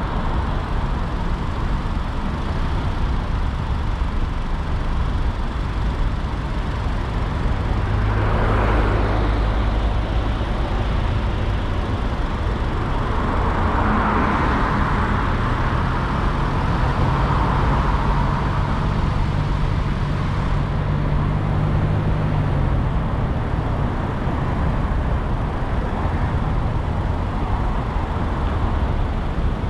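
Car driving through city traffic: steady road and engine noise, with other vehicles swelling past now and then, most plainly about eight seconds in and again around the middle.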